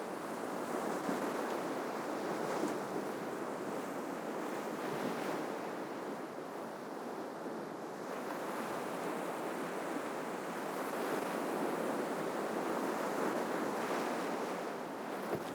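Ocean surf washing onto the shore, a continuous rushing wash that swells and eases slowly as waves break.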